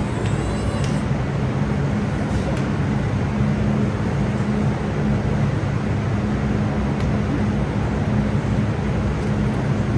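A steady, loud mechanical drone with a low hum running through it, unchanging.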